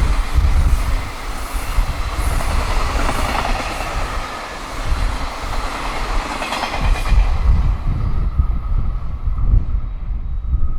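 High-speed freight train's wagons passing, the wheels clattering rhythmically over the rail joints. The clatter fades away about seven seconds in as the end of the train goes by. A heavy low wind rumble on the microphone runs under it.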